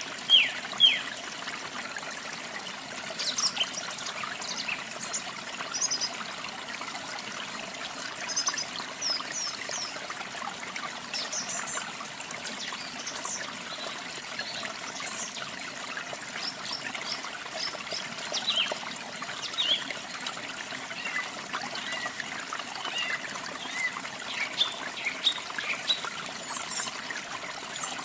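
Steady trickle of running water, with small birds chirping sparsely over it; a few loud, quick falling chirps come in the first second.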